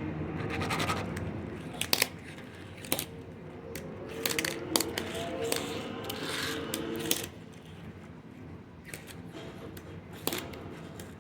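Irregular sharp clicks and light scrapes of small hard plastic and metal parts: a Tech Deck fingerboard and its trucks being handled and tapped.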